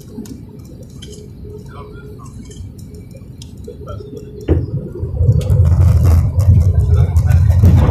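Airliner landing: a steady low hum, then a sudden knock about halfway through as the plane touches down, followed by a loud low rumble.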